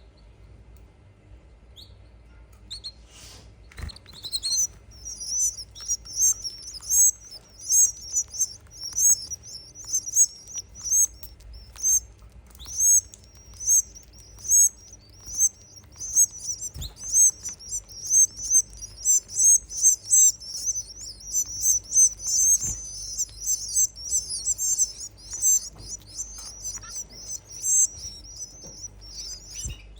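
Canary nestlings begging for food as they are fed, a fast run of short, high-pitched cheeps about twice a second that starts about four seconds in.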